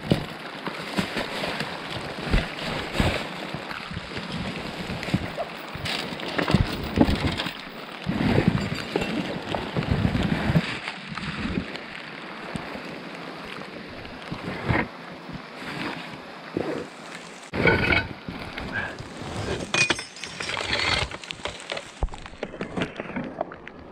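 Muffled rummaging through dumpster junk: rustling, scattered knocks and a few heavier thuds over a steady wet hiss, heard through a waterlogged GoPro microphone.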